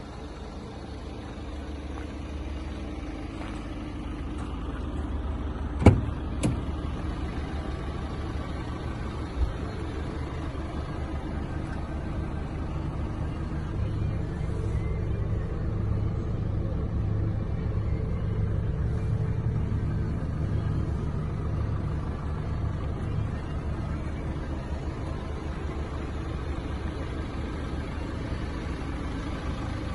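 Renault Master van's 2.3-litre four-cylinder diesel engine running steadily, a little louder in the middle. A sharp knock comes about six seconds in, with a second, smaller one just after.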